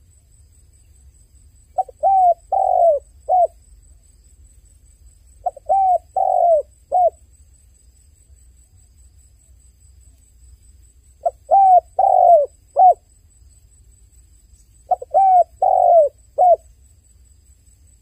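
Dove cooing: four phrases, each of about four short, falling coo notes, with a few seconds of quiet between phrases.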